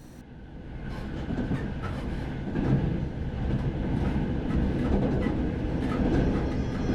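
Train running on the rails: a low rumble with scattered clattering clicks that grows louder over the first couple of seconds, then runs on steadily.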